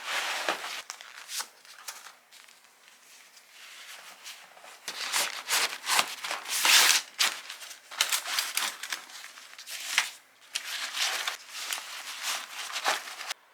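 Nylon fabric and stuff sacks rustling and crinkling in irregular bursts as camping gear is handled and packed into a backpack, cutting off suddenly near the end.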